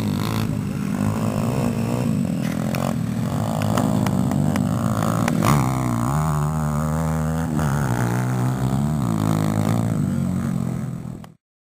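Small single-cylinder four-stroke dirt bike engine running under riding throttle, its pitch rising and falling as the throttle changes. The sound cuts off abruptly near the end.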